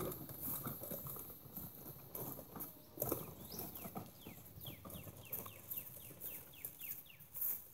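A bird singing a quick run of about a dozen short downslurred whistles, about three a second, starting about halfway in. Faint scattered clicks sound throughout.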